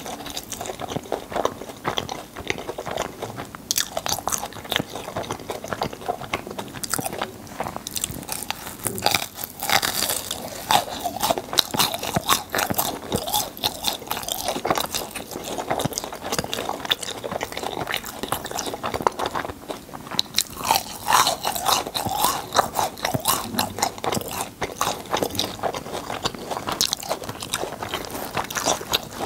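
Crisp churro being chewed close to the microphone: a steady run of sharp crunches and chewing throughout.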